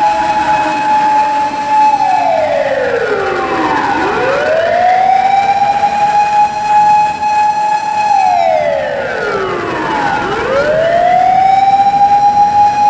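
Japanese fire engine siren wailing. The tone climbs quickly, holds steady for a few seconds, then slides slowly down; it does this twice, climbing back up each time, about every six seconds.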